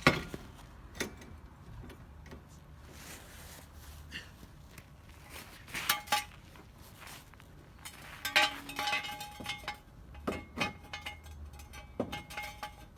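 Irregular sharp metallic clinks and knocks, some ringing briefly, from a car jack and jack stand being worked and set under a car.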